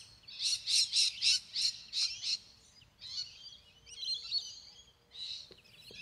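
Birds calling: a quick run of about seven sharp, repeated high notes, roughly three a second, then a spell of jumbled twittering and one more call near the end.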